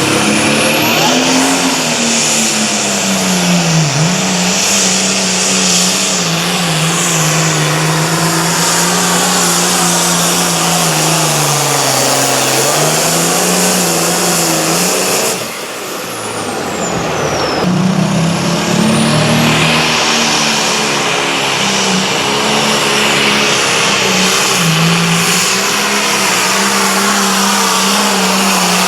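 Competition pulling tractor engine running hard under load as it pulls the sled. The engine's pitch sags and recovers several times, and there is a brief dip in loudness about halfway through.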